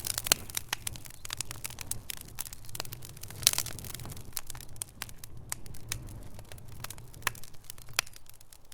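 Wood fire crackling in a fireplace: irregular sharp pops and snaps over a low steady rumble of the burning, with one louder pop about three and a half seconds in.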